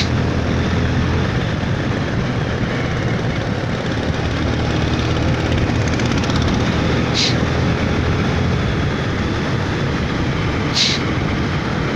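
Steady engine drone and road and wind rush from a vehicle on the move. Two short high-pitched blips come about seven and eleven seconds in.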